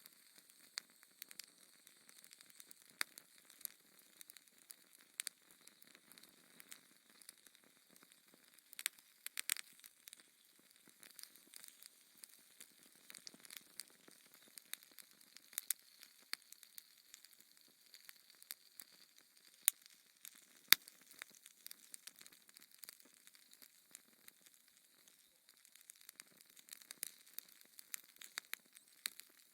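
Wood fire in a fireplace crackling: soft hissing with irregular sharp pops and snaps, two of them louder about two-thirds of the way through.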